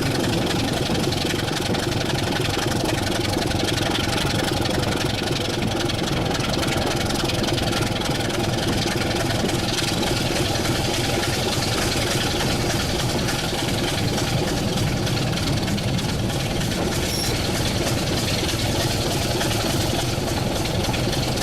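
Diesel locomotive engine idling steadily at a constant pitch and level, with no revving.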